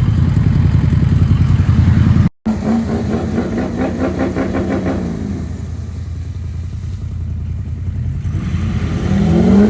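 An engine running at a low, uneven throb, dropping out abruptly for an instant after about two seconds. Its pitch then falls away, it runs quieter for a while, and near the end it revs up with a rising pitch.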